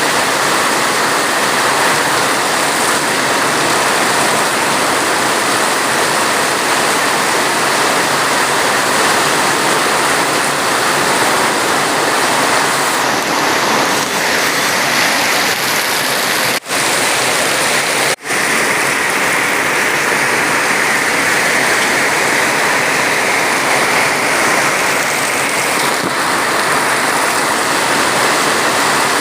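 Heavy rain falling: a steady, dense hiss that cuts out for an instant twice, a little past halfway.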